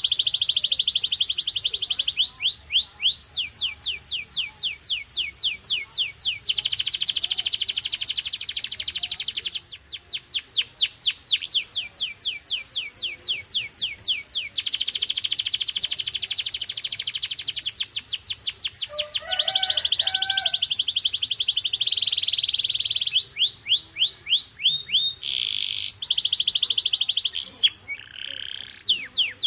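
Domestic canary singing a continuous high-pitched song of trills and rolls. Long, dense buzzing rolls alternate with series of quick falling notes at about five a second, and a few lower chirping notes come about two-thirds of the way through.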